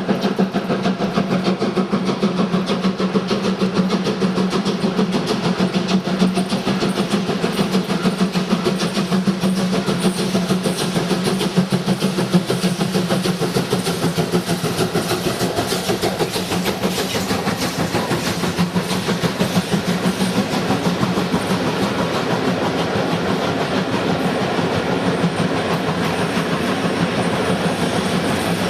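A train running past, with a rapid, dense clicking of wheels on the rails over a steady hum.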